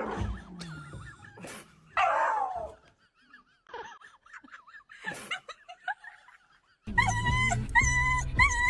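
A dog whimpering and yipping in short, wavering high cries, with one louder yelp about two seconds in. About seven seconds in, music with a steady repeating beat starts.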